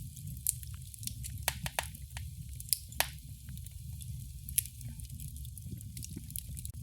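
Fireplace fire crackling: irregular sharp pops and snaps, a few louder than the rest, over a low steady rumble of the flames.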